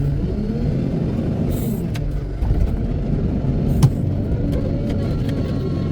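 Wheel loader's diesel engine running steadily with a deep rumble, with a couple of sharp clicks partway through.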